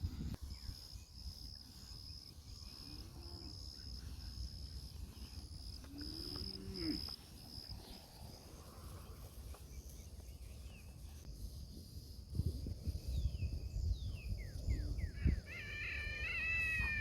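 Puppies whimpering faintly over a low wind rumble, with a clearer high, wavering whine near the end. A steady high insect trill pulses through the first half.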